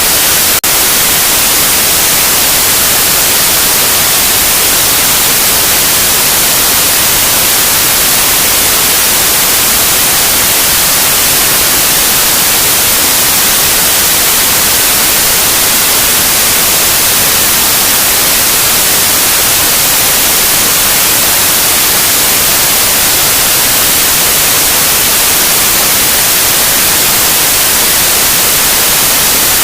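Loud, steady white noise: an even hiss, brightest in the highs, with one brief click shortly after it begins.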